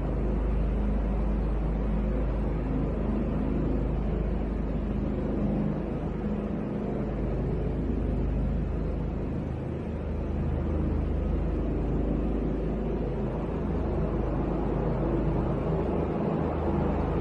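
Helicopter engine and rotor noise, a steady low rumble with no sudden changes.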